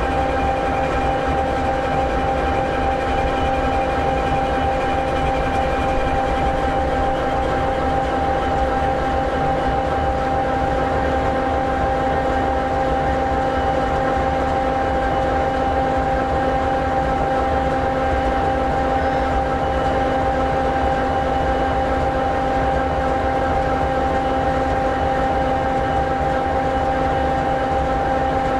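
EMD 16-710G3B two-stroke diesel engine of an SD60E locomotive idling steadily: a constant low rumble with a steady whine over it.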